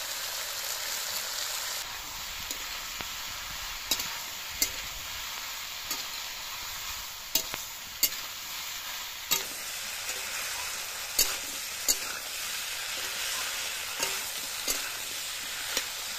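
Potatoes and spiny gourd frying in oil in an iron kadai, sizzling steadily, while a metal spatula stirs and scrapes the pan in sharp, irregular clicks.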